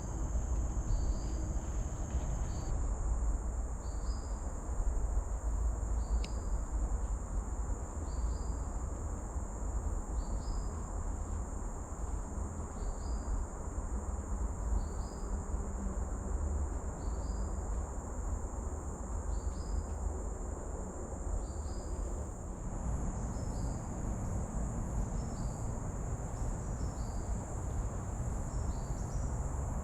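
Tropical forest insects making a steady high drone, with a short chirp repeating about once a second and coming faster near the end, over a low rumble.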